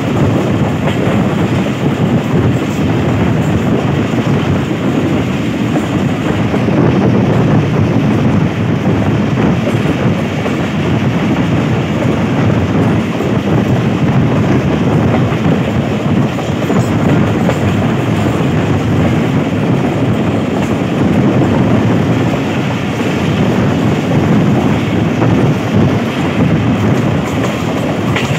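Passenger train running along the track, heard from an open window of one of its moving coaches: a steady, loud running noise of wheels on rails, heaviest in the low range.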